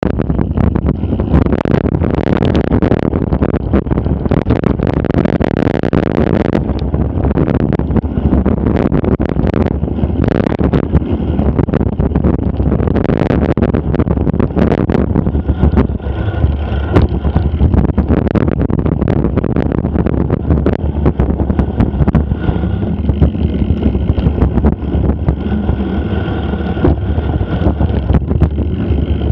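Wind buffeting the microphone of an action camera on a moving mountain bike, a steady low rumble, with frequent rattles and knocks from the bike jolting over rough ground.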